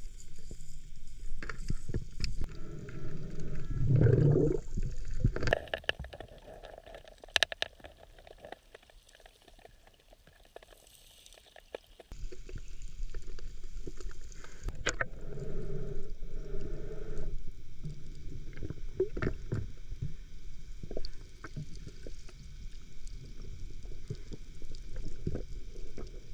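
Muffled underwater sound picked up by a camera in a waterproof housing: water movement and gurgling, with scattered knocks and scrapes. It goes quieter for several seconds in the middle.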